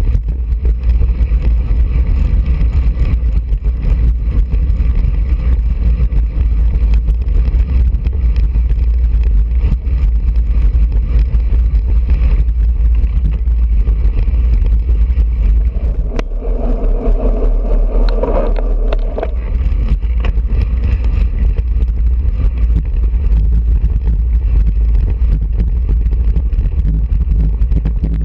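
Wind buffeting a bike-mounted GoPro's microphone while riding at speed: a loud, steady low rumble.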